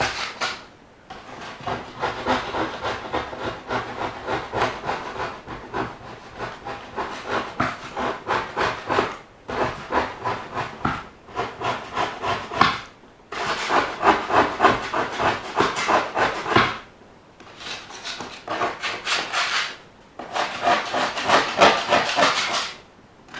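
OO gauge model train running on its track, a fast rhythmic clicking of wheels and mechanism that drops away and comes back several times.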